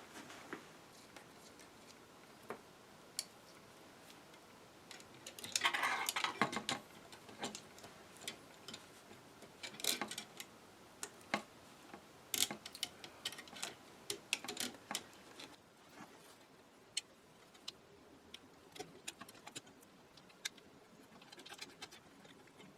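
Irregular small clicks, taps and clatter of metal and wooden parts being handled and fitted into an antique radio receiver, busiest around six and ten seconds in and again between about twelve and fifteen seconds.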